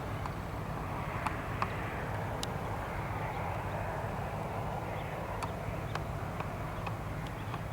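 Steady rumble of jet aircraft at an airport, with a few faint clicks scattered through it.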